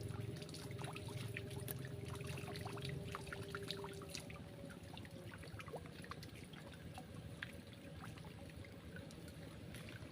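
Water trickling and dripping, with many small scattered drips and splashes.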